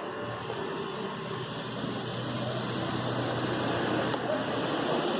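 A vehicle's engine running steadily with a low hum, with faint voices in the background.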